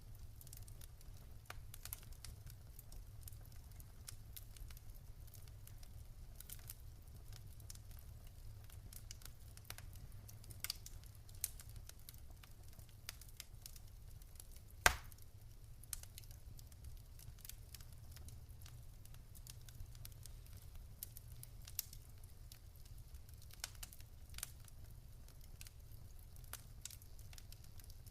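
Wood fire in a fireplace crackling: scattered sharp pops and snaps over a low steady rumble, with one much louder pop about halfway through.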